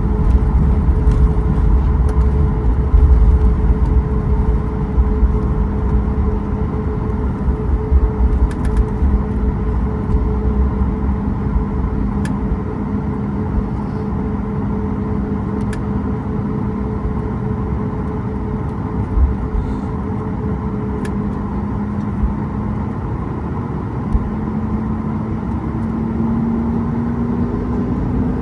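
Inside the cabin of a Boeing 737 MAX 8, its CFM LEAP-1B engines running with a steady hum and a low rumble that eases after about ten seconds. Over the last few seconds the engine tone rises slowly.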